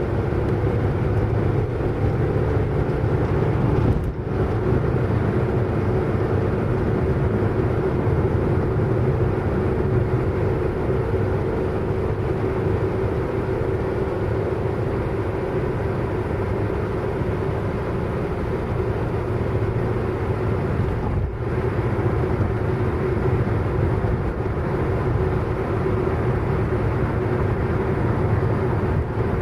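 Car driving at a steady speed: continuous engine and road noise with a steady low hum, broken by two brief dips, about four seconds in and again about twenty-one seconds in.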